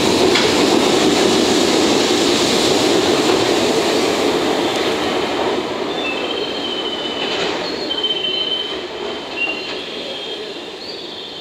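Tail of a container freight train rolling past and away, its EF67 rear banker electric locomotive passing last; the rumble of wheels and cars slowly fades. From about six seconds in, the wheels squeal in thin, high, wavering tones.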